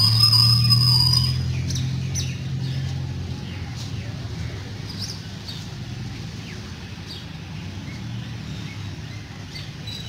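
Birds chirping in short scattered calls over a low steady hum, which is loudest in the first second or two and then fades to a fainter background.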